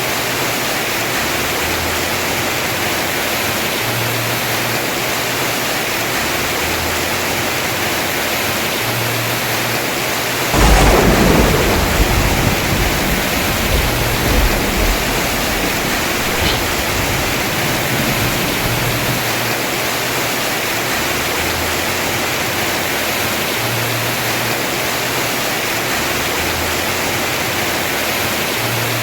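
Heavy rain falling steadily on a house roof. About ten seconds in, a sudden thunderclap breaks out and rumbles for a few seconds before fading back into the rain.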